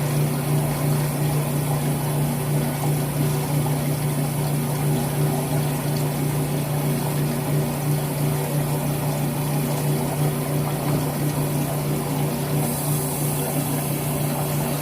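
Washing machine running with a steady low hum, a little loud.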